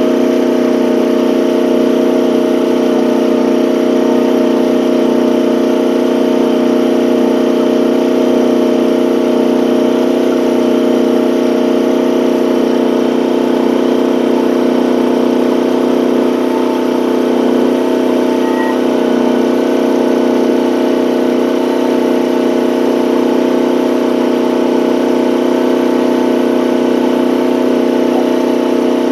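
Gasoline engine of a one-ton mini excavator running steadily while it drives a hydraulic auger boring into hard, compacted ground.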